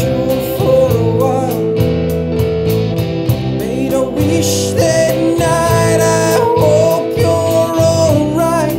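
Rock band playing: guitars over bass and drums.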